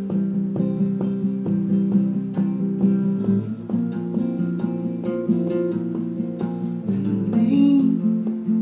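Guitar strummed in a steady rhythm of chords, an instrumental passage between sung lines of a slow song.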